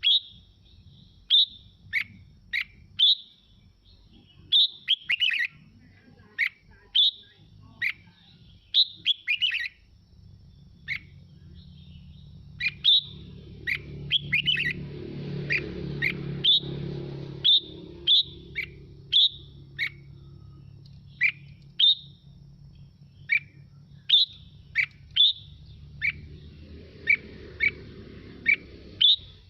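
Red-whiskered bulbul singing: short, loud, downward-gliding whistled phrases repeated about once or twice a second. A low rumble rises underneath in the middle and again near the end.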